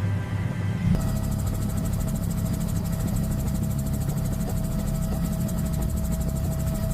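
Helicopter in flight: steady engine and rotor noise with a deep rumble and a thin steady whine. The sound changes abruptly about a second in.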